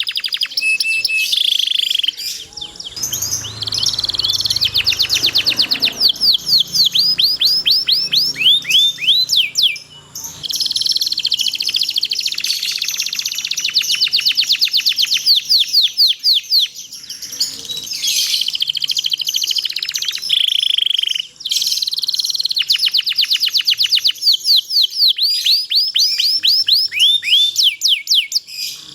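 Domestic canary singing a long, loud rolling song: fast trills and rapid runs of repeated down-sweeping chirps, in long phrases with brief pauses between them.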